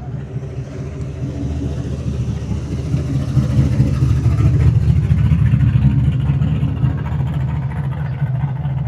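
A classic car's engine and exhaust as the car drives in past, getting louder to a peak about halfway through and then fading slightly as it moves on.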